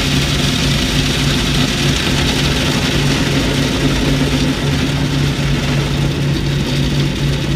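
Automatic car wash machinery working on the car, heard from inside the cabin: a steady hiss of spray over a low hum that pulses regularly.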